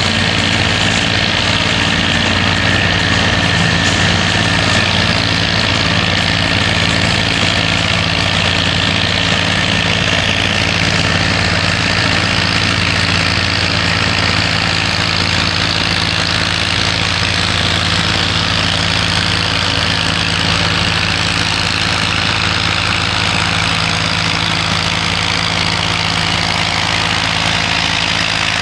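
A pulling tractor's engine idling steadily, its pitch and loudness holding nearly even throughout.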